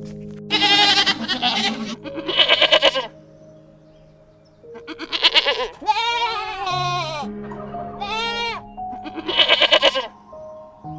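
Several loud, quavering bleat-like animal calls over soft background music with long held notes.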